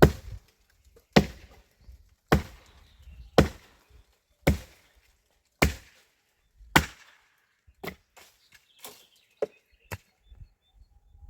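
Heavy chopping blows from a hand tool at a steady pace of about one a second. There are seven strong strikes, then several lighter, quicker ones near the end.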